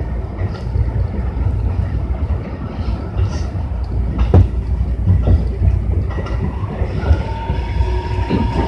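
Tobu 60000 series electric train running, heard from inside the car: a steady low rumble of wheels on rail with a few sharp clacks from rail joints, and a steady whine that sets in about seven seconds in as the train nears its stop.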